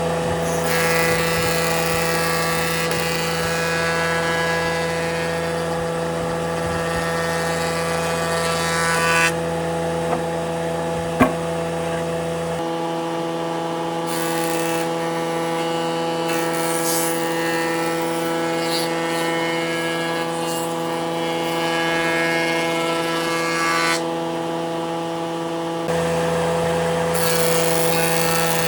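Electric power tool running on wood, a steady motor whine with a grinding, rubbing noise over it. The tone changes a little before halfway and again near the end, and there is one sharp click shortly before the change.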